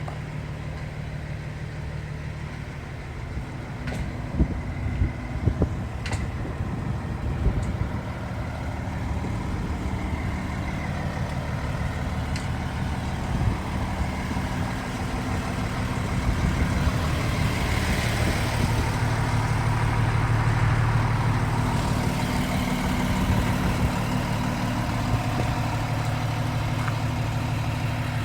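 2024 E-One fire engine's diesel engine idling steadily, with a few sharp clicks early on; the running grows louder about halfway through.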